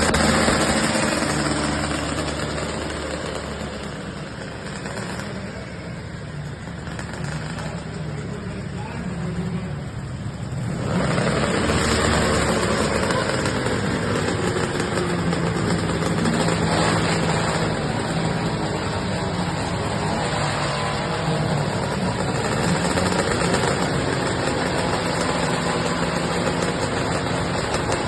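Engines of a multi-engine pulling tractor running, fading over the first several seconds, then suddenly louder again about eleven seconds in and staying loud.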